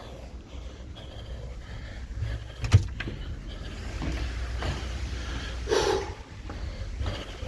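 Steady low rumble of the expedition ship's engines, with a single sharp knock a little under three seconds in.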